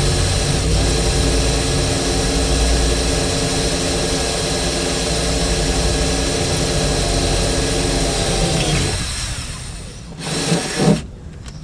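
A handheld power tool running steadily at full speed, then spinning down about nine seconds in, followed by a short second burst near the end.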